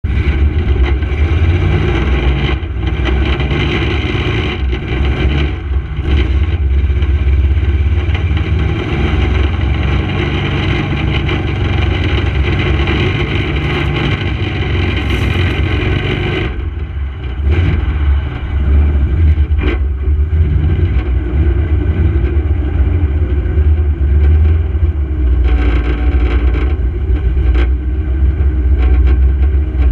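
1932 Ford roadster hot rod's engine running hard as the car drives, heard up close from the car itself. The sound eases off a bit over halfway through, then builds again.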